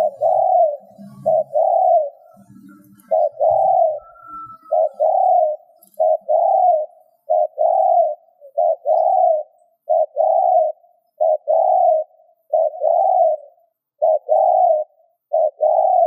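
Spotted dove cooing over and over, each phrase a short note followed by a longer one, in a steady rhythm.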